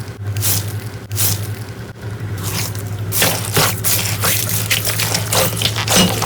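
Slime being squished and pressed by hand, making wet, sticky clicks and pops that come thicker from about three seconds in, over a steady low hum.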